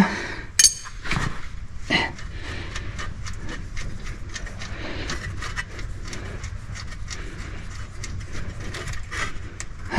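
Scattered light metallic clicks, taps and a few knocks from hand tools and bolts being handled while the engine is unbolted, over a low steady background rumble.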